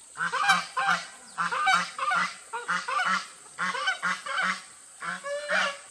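Geese honking repeatedly: a run of short, loud calls in pairs and threes, stopping just before the end.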